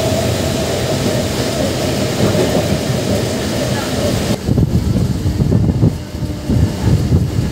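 MEMU electric train running at speed, heard from the open doorway: a steady rush of wheel and rail noise with a faint hum. About four seconds in, the hiss drops away and gusty wind buffeting on the microphone takes over.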